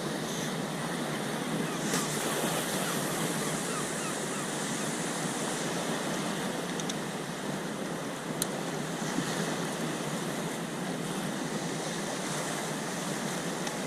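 Sea waves washing steadily against a rocky sea wall, with a little wind on the microphone and a couple of faint clicks.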